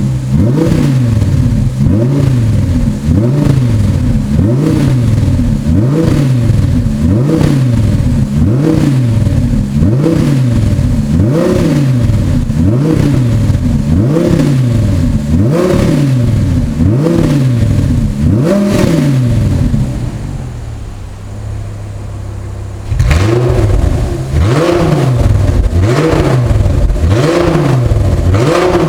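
Audi R8's naturally aspirated 5.2-litre V10 revved in repeated quick blips through a Fabspeed X-pipe valved exhaust, about one blip every second and a half. About twenty seconds in it drops to idle for a few seconds, then the blips resume with a harsher, brighter, more open exhaust note as the exhaust valves open.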